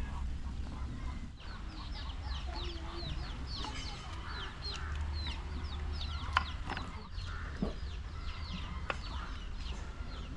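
Chickens clucking, with many short, high, falling chirps repeating throughout.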